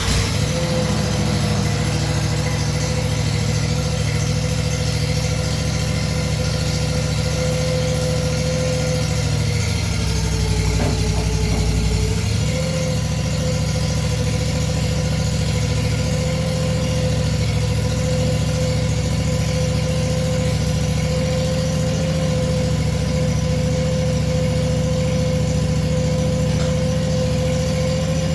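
Ventrac compact tractor's engine running steadily just after being started. Its note dips briefly about ten seconds in and comes back up a couple of seconds later.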